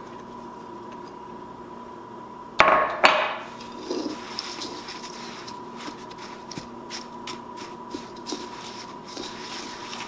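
Two loud sharp knocks about half a second apart, then a spoon clicking and scraping against a bowl as snow is stirred into sweetened condensed milk for snow ice cream.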